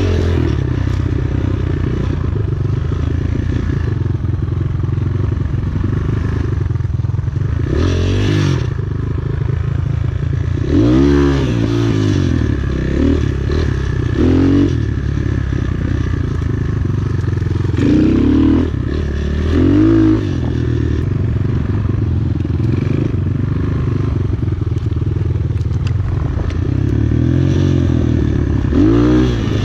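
Enduro motorcycle engine running under way, its revs rising and falling in a series of short throttle blips, most clearly about eleven seconds in and again near the end.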